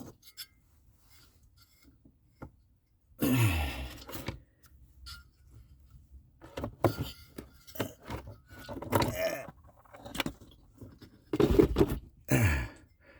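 Diesel heater's metal parts being worked and slid back into its casing: scraping, clinking and knocking in irregular bouts, with a man's effortful grunts.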